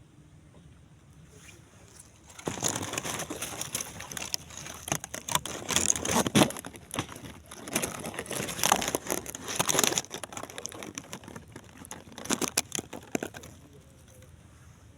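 Loud crinkling and rustling handling noise with sharp crackles, starting about two and a half seconds in and stopping shortly before the end.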